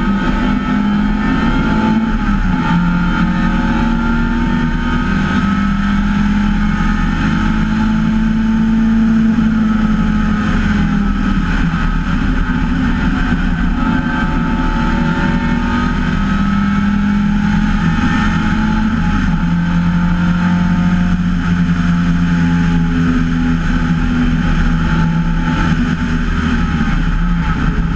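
An MGA race car's four-cylinder engine heard onboard in the open cockpit, running hard around a race track. Its note rises and falls in pitch a few times with throttle and gear changes.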